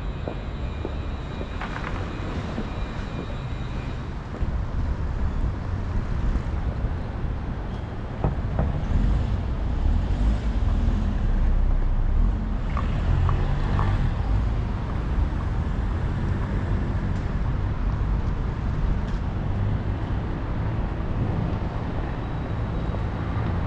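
Street traffic noise heard while riding through a city, with a steady low rumble that gets louder about four seconds in.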